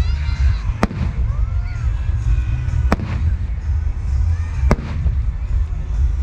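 Aerial fireworks bursting: three sharp bangs about two seconds apart, over a heavy low rumble and background music.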